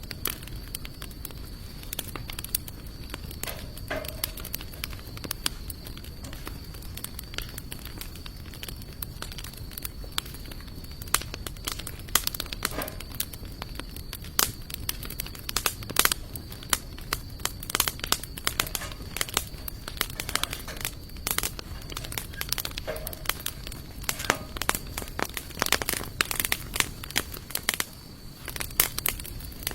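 Wood campfire of sawtooth oak and mixed hardwood logs crackling, with irregular sharp pops that come thicker and louder from about halfway through.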